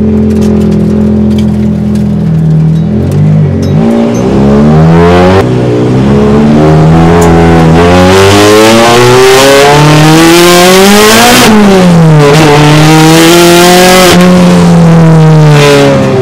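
Turbocharged Toyota 3S-GE Beams inline-four in a Nissan S14 running steadily, then revving up hard under acceleration. Its pitch climbs for several seconds, drops sharply at a gear change about eleven seconds in, climbs again, and eases off near the end.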